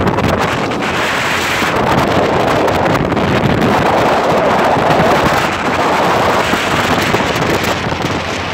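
Wind buffeting the microphone on a speedboat running at speed, mixed with the boat's engine and water rushing past the hull.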